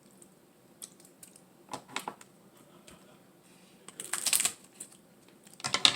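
Dungeness crab shell being cracked and pulled apart by hand: scattered crackling clicks and snaps in short clusters, loudest about four seconds in and again near the end.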